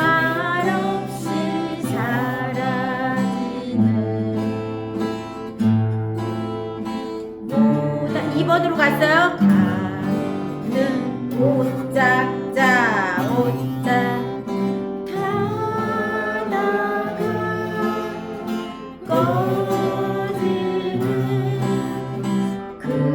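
Acoustic guitar strummed in a three-beat waltz pattern, a bass note followed by two strums, accompanying one voice singing a slow melody with vibrato.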